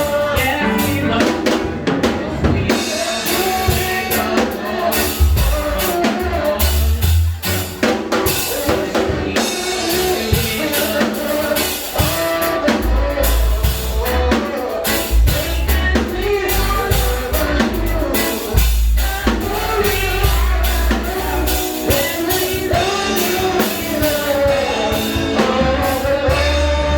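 Congregational gospel singing with a live band: voices carrying the melody over a drum kit keeping a steady beat, with heavy bass.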